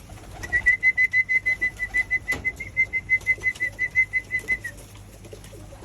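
A person whistling a fast, even train of short high notes on one pitch, about seven a second, for some four seconds. It is a pigeon keeper's call to bring hungry pigeons down to feed.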